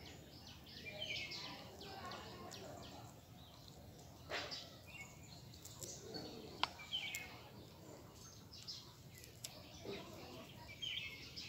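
Outdoor ambience with scattered short, high bird chirps and calls, and one sharp tick about two-thirds of the way in.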